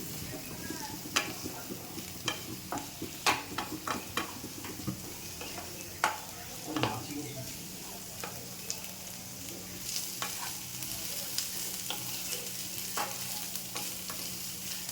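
Chopped onions with ginger and garlic paste frying in oil in a kadai, sizzling as they are stirred, with the utensil clicking and scraping against the pan at irregular moments.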